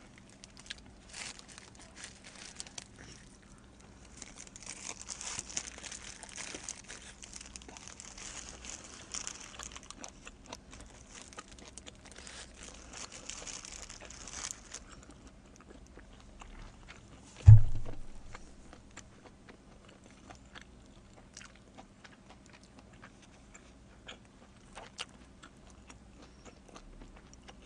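Close-miked chewing and biting of pizza, with soft crunching and small wet clicks. A hissy rustle runs from about 4 to 14 s. One dull low thump comes about two-thirds of the way through, over a faint steady hum.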